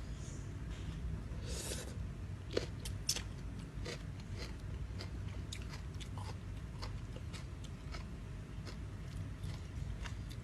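Close-up mouth sounds of a person chewing a rice-noodle salad with crispy squid: irregular crisp crunches and wet clicks, with a couple of louder bites about two and a half to three seconds in, over a low steady hum.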